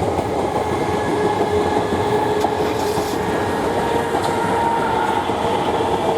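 South Western Railway Class 455 electric multiple unit running past close by: steady wheel-on-rail noise with a faint steady whine.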